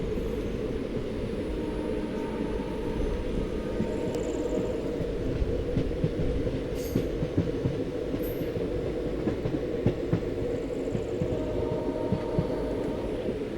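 Train running along the track, heard from on board: a steady low rumble of wheels on rails with frequent irregular knocks from the rail joints. Two brief high squeaks come a little past halfway.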